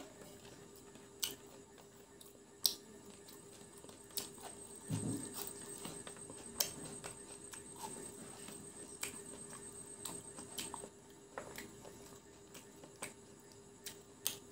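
Close-up eating sounds of fried chicken pakora eaten by hand: chewing, crunching and mouth clicks coming as an irregular scatter of sharp clicks, over a faint steady hum.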